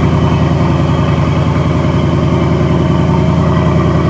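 2020 Ford Mustang GT's 5.0 V8 idling steadily through its factory mufflers and an H-pipe, still warming up after a cold start. There is an even low exhaust pulse and no revving.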